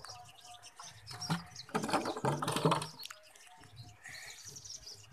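Outdoor ambience with birds chirping, and a louder noisy sound lasting about a second, about two seconds in.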